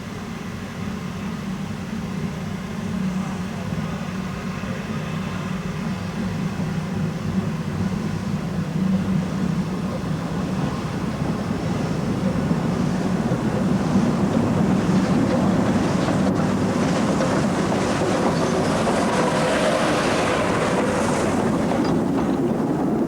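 Narrow-gauge Beyer-Garratt steam locomotive working a train away, its sound growing steadily louder as it draws near.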